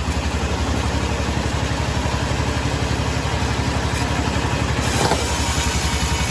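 Engine running steadily with an even low pulsing beat of about a dozen a second, with a brief scrape-like noise about five seconds in.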